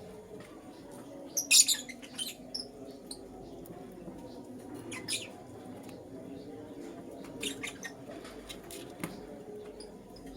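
Young lutino lovebirds chirping in short, sharp high chirps. The loudest burst comes about one and a half seconds in, with single chirps about five, seven and a half and nine seconds in, over a steady low background murmur.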